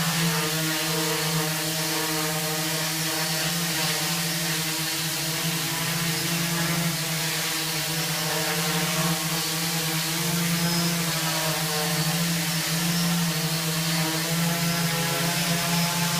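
Multirotor drone hovering, its propellers giving a steady buzzing hum with a hiss of air, the pitch wavering slightly as the rotors hold it in place against strong wind.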